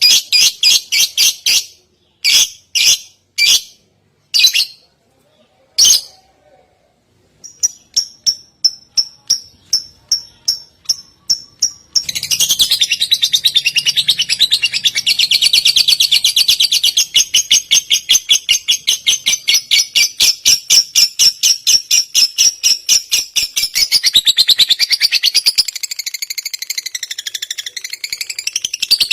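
A songbird singing as a tutor song for white-rumped shamas. It starts with short bursts of rapid high chips, then from about twelve seconds in breaks into a long, continuous, fast chattering trill that wavers in pitch near the end.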